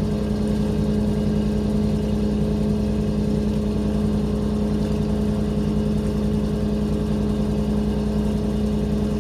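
A sailing boat's inboard engines running steadily while motoring under way: an even hum with no change in speed.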